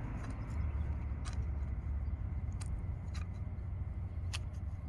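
A few faint clicks and taps of hand tools working at a hardened old intake manifold gasket, over a steady low hum.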